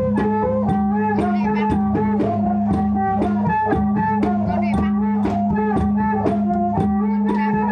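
Traditional mamuad ritual dance music: a steady low drone under a melody that slides between notes, with a drum beating about twice a second.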